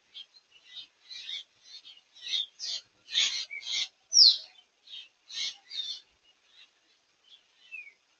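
Small bird chirping in quick short high notes, with a few downward-sliding whistles among them, thinning out after about six seconds.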